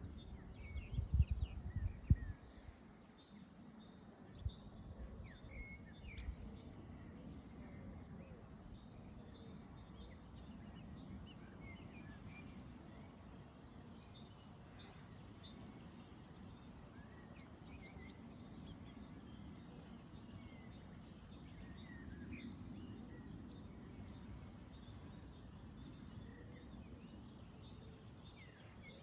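Crickets singing: a steady, high, rapidly pulsing trill that goes on without a break. Short faint bird chirps come and go over it, and a few low thumps sound near the start.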